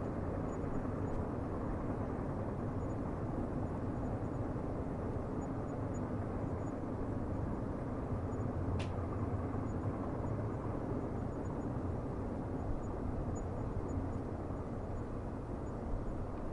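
Steady low rumble of a distant train running on the rails, with a brief click about nine seconds in.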